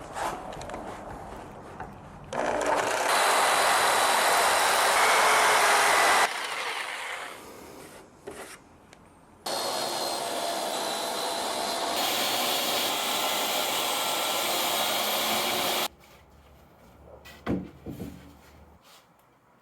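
A power tool working wood in two long runs, the first about four seconds, the second about six seconds and stopping abruptly, with a few knocks of wood being handled near the end.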